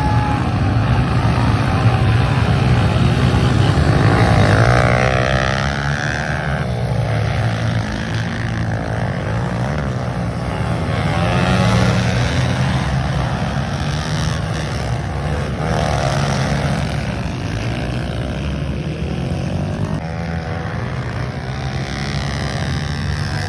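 Pit bike engines revving during a race, their pitch rising and falling again and again as the riders work the throttle.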